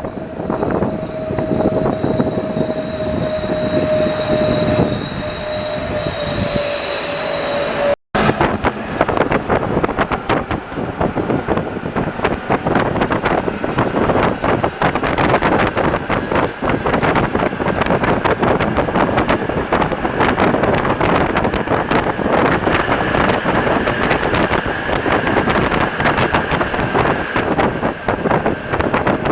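Santiago Metro NS-74 rubber-tyred train running, with a steady electric traction whine that sinks slightly in pitch. After a brief cut about eight seconds in, the running noise is denser and full of rapid rattling clicks, with a higher whine over it.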